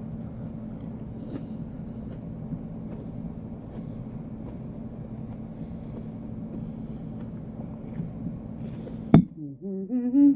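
A steady low hum, then a sharp click near the end followed by a brief pitched voice-like sound.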